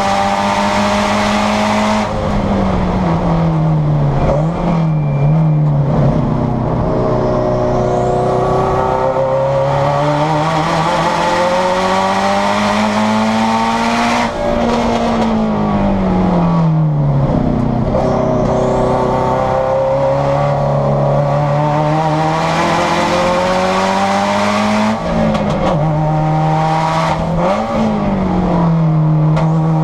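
Turbocharged Subaru STi race car's flat-four engine heard from inside the cabin while lapping the track. It climbs steadily in pitch through long pulls and falls away quickly several times, with two short rev spikes near the end.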